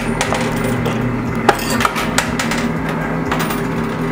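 Quarters clicking and clinking inside a coin pusher machine, a few sharp metallic ticks over the steady hum and held electronic tones of an arcade.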